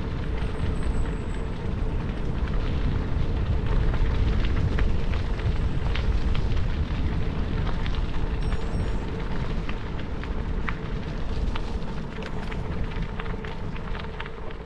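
Bicycle tyres crunching over gravel, with many sharp pops and clicks of stones under the tyres over a heavy low rumble on the helmet camera's microphone. It gets slightly quieter near the end.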